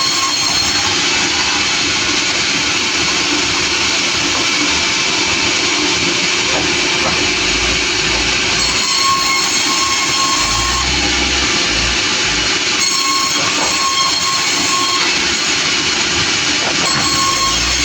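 Sawmill machinery running loud and steady, with a whine that comes and goes as the saw works through the log.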